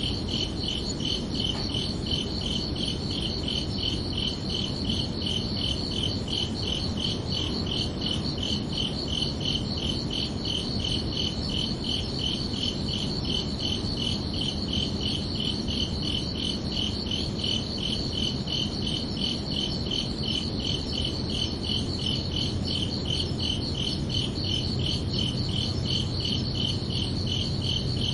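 Crickets chirping in a steady, evenly repeating rhythm of high-pitched pulses, over a low background rumble.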